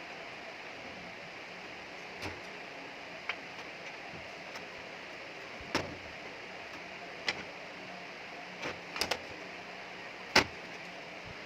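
About seven sharp clicks and taps at irregular intervals over a steady hiss, the loudest a little over ten seconds in.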